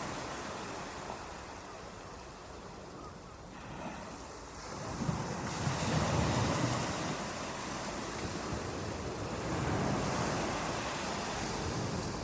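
Ocean surf: waves washing in and drawing back, quieter for the first few seconds, then swelling about five seconds in and again near ten seconds.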